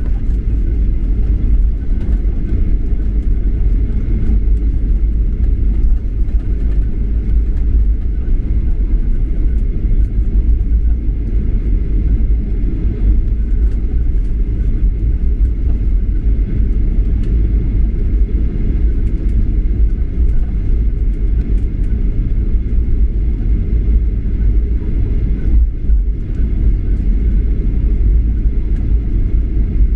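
Steady low rumble of cabin noise inside a Japan Airlines Boeing 737-800 airliner, even and unbroken throughout.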